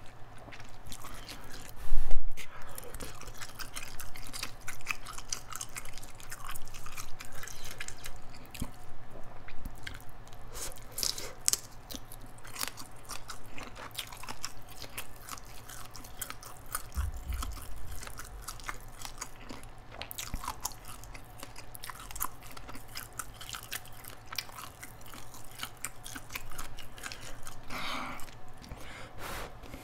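Close-miked chewing of chewy instant ramen noodles, a steady run of small wet mouth clicks with some crunching. There is a single loud thump about two seconds in.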